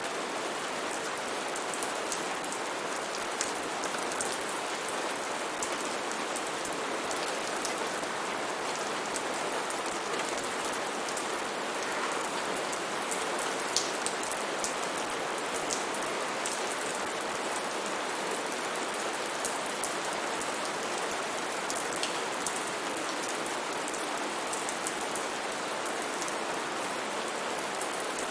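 Steady rain falling in a rainforest, a dense even hiss with many individual drops pattering sharply on leaves and surfaces.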